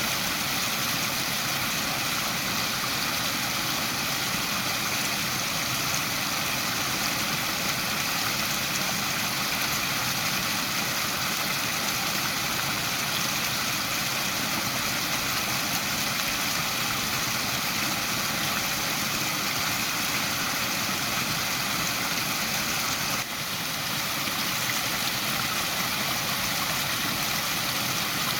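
Waterfall: water falling and splashing in a steady, unbroken rush, with a brief slight dip in level a little past the midpoint.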